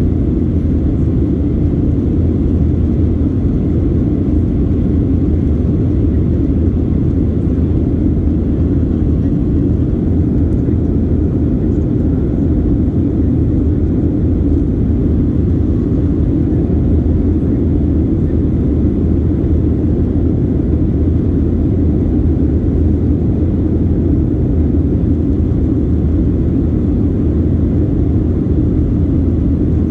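Steady low drone of a passenger airliner's engines and airflow heard inside the cabin, even and unchanging.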